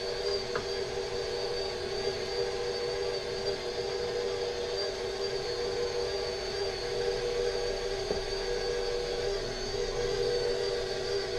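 Electric stand mixer running steadily as it mixes cookie dough, a constant motor hum with a high, slightly wavering whine.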